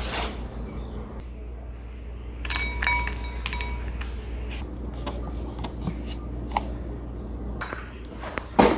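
Steady low hum with light clinks and small knocks, a few of them ringing briefly like glass or a dish, about two and a half to three and a half seconds in.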